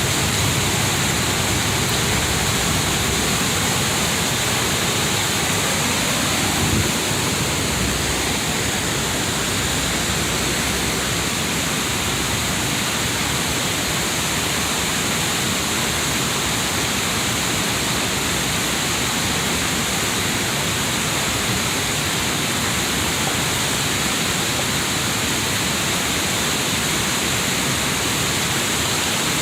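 Steady rush of water falling over a river cascade, an even, unbroken noise.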